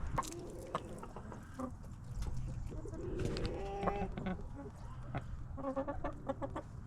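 A flock of chickens clucking: scattered short calls, a few drawn-out pitched notes about three to four seconds in, and a quick run of clucks near the end.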